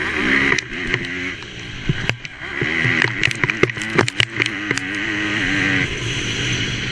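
MX2 motocross bike engine racing, its revs rising and falling over and over, under a steady rush of wind and with a cluster of sharp knocks and clatters in the middle.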